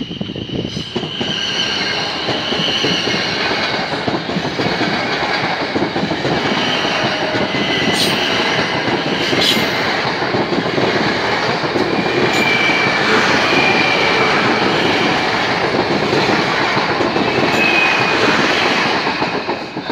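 South Western Railway Class 450 Desiro electric multiple unit passing close by at speed: a loud rush of wheels on rail, with high steady tones coming and going over it and two sharp clicks midway. It builds about a second in and stops abruptly as the last carriage clears, near the end.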